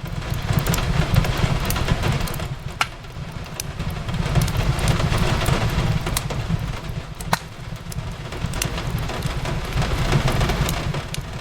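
Wood fire crackling in a fireplace, with sharp pops every second or so, over steady rain and a continuous low rumble.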